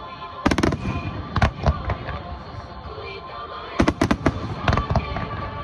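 Aerial fireworks bursting in several sharp bangs and crackles, with a cluster of bangs about four seconds in. Music plays underneath.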